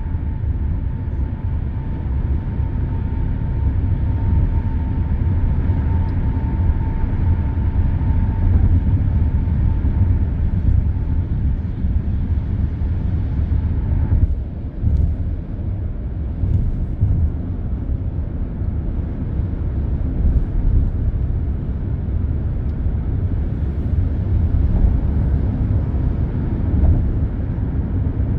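Expressway traffic, a steady low rumble of tyres and engines, with a faint steady whine in the first third.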